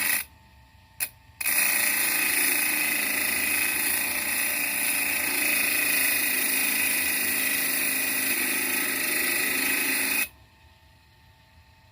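Homemade grinder powered by an electric fan motor, switched on in two short bursts and then running steadily for about nine seconds before it cuts off suddenly.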